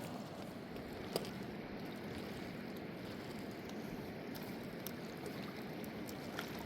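Steady rushing of flowing river water, with a single sharp click or knock about a second in.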